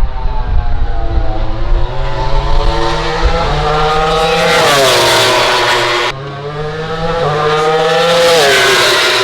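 MotoGP prototype motorcycles at racing speed passing close by, twice. Each engine note rises as the bike approaches, then drops sharply as it goes past. An abrupt break between the two passes.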